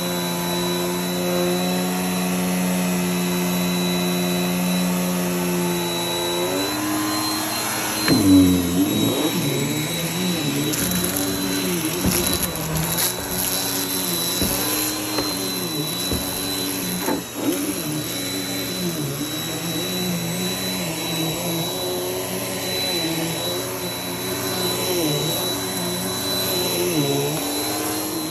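Vacuum cleaner motor running, at first at a steady pitch. After about seven seconds the pitch starts to waver up and down about once a second as the vacuum is worked back and forth. There is a knock about eight seconds in.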